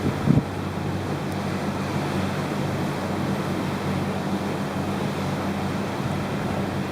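Steady wind rushing over the microphone on a cruise ship's open deck, over the ship's low steady hum. There is a brief bump about a third of a second in.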